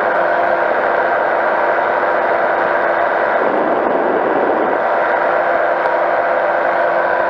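Powered parachute's engine and propeller running steadily in flight: a constant drone with a few steady tones in it.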